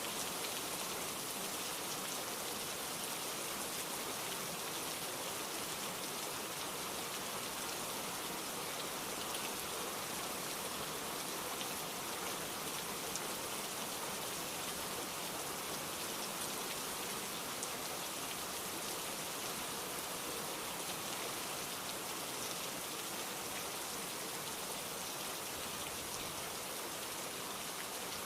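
Heavy, steady rain falling, with a dense patter of drops on surfaces.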